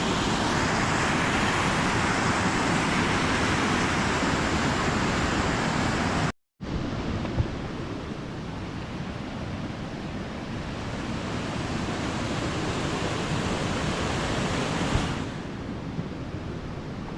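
Waterfall rushing: a steady, even roar of falling water. It cuts out for a moment about six seconds in and comes back a little quieter, then drops slightly again near the end.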